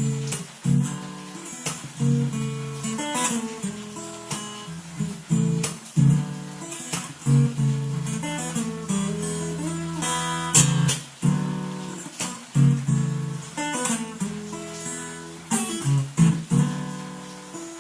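Acoustic guitar strumming chords, a sharp strum every second or so with the chords ringing on between, in an instrumental passage with no singing.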